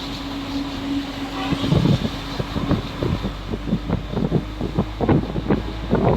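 A motor vehicle running with a steady low hum and a held tone for the first few seconds, then a quickening series of sharp knocks and rattles that grows denser toward the end.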